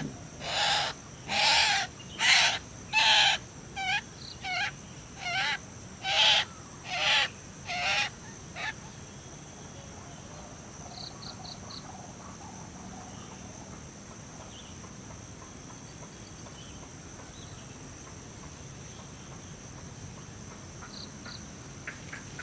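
White-breasted waterhen calls: about ten loud, hooting calls repeated evenly, a little under one a second, stopping about nine seconds in. A steady high insect drone runs underneath.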